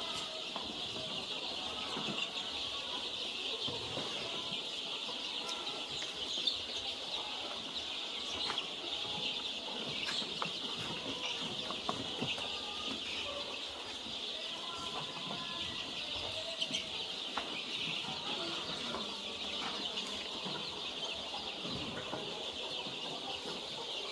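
A brood of chicks about 11 days old peeping all together in a dense, steady high-pitched chorus, with scattered small clicks and rustles.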